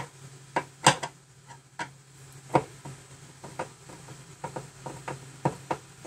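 Screwdriver tightening the screws of a kitchen cabinet door hinge back up after they were loosened to readjust the door: a series of irregularly spaced sharp clicks and taps.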